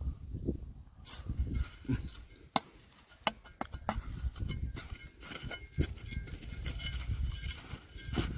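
Stones and gravel being dug and handled by hand: scattered irregular clicks and knocks over a low rumble.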